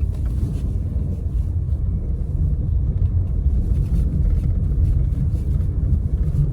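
A loud low rumble that stays fairly even throughout, with almost nothing higher-pitched above it.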